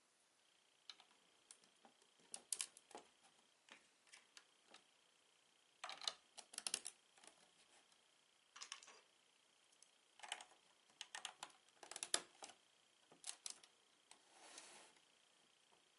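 Plastic Lego bricks being handled and pressed together: scattered light clicks and taps in small clusters, with a brief rustle near the end.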